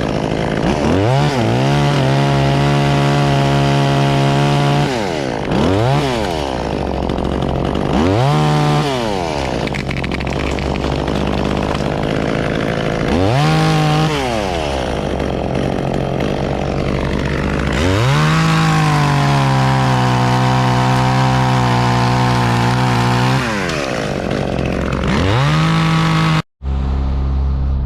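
Chainsaw revved up to full throttle again and again. It is held there for several seconds twice, the pitch sagging a little under load as in a cut, with short throttle blips in between. A steady lower engine hum runs underneath, and the sound cuts off abruptly near the end.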